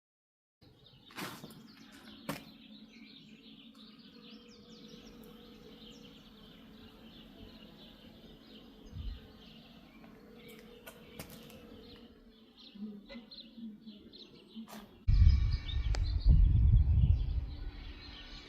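Outdoor ambience with small birds chirping and a faint steady hum, broken by a few sharp clicks. A loud low rumble on the microphone takes over for the last few seconds.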